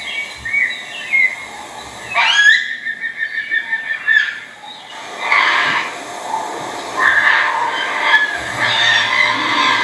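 Birds calling: a whistled call that sweeps sharply upward and is held for about two seconds, followed by a run of harsher, overlapping chirping calls.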